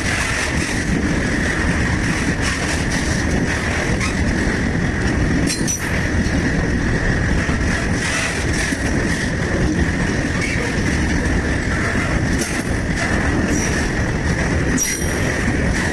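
Indian Railways freight train rolling past, a steady heavy rumble of wagons on the rails with scattered clicks from the wheels and a steady high whine over it.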